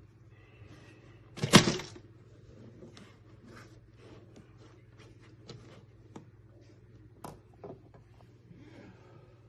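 A loud thump about a second and a half in, then scattered light clicks and knocks, over a steady low hum.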